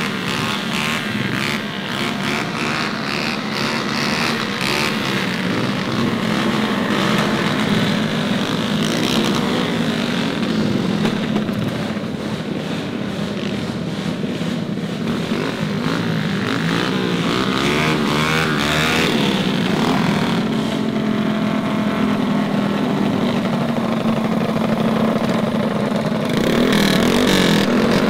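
Small mini bike engines running, their pitch rising and falling as they rev.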